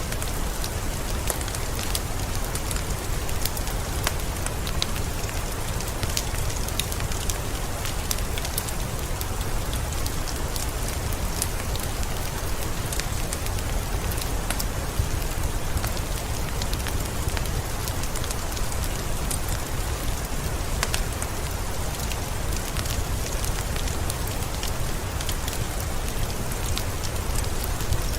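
Steady rain hiss mixed with a crackling wood fire: scattered sharp crackles and pops over a constant low rumble.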